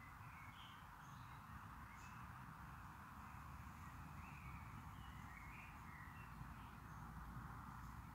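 Faint, steady hiss and low rumble with scattered short bird calls.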